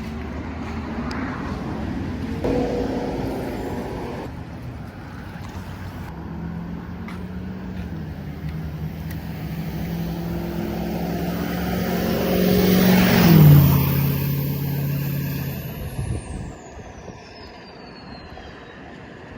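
A motor vehicle driving past, its engine note growing louder to a peak about two-thirds of the way through, dropping in pitch as it passes, then fading away.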